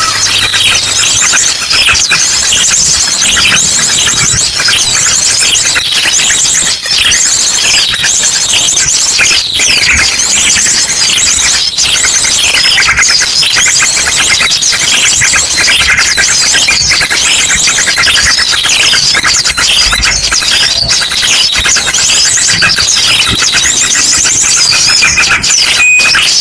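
Dense, loud chorus of many small birds chirping and twittering over one another without a break, mixed with ashy drongo song in fast repeated trills: a bird-lure recording meant to draw in small birds.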